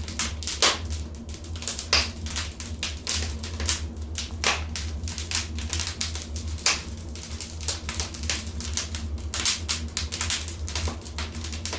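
Wood fire crackling: irregular sharp snaps and pops, several a second with a few louder ones, over a steady low rumble.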